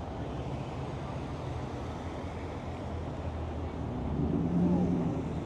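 Car engine running with a steady low hum; it grows louder about four seconds in.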